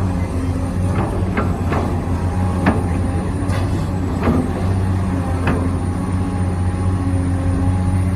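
Remote-control Volvo excavator model running with a steady mechanical hum, with about seven sharp clicks and knocks at irregular intervals as it works.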